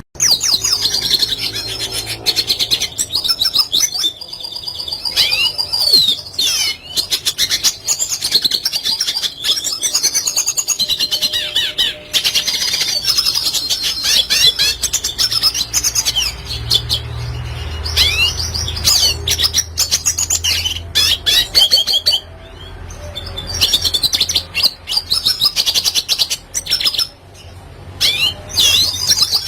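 Red siskin singing: long runs of rapid twittering and warbling full of quick sweeping notes, broken by a few short pauses.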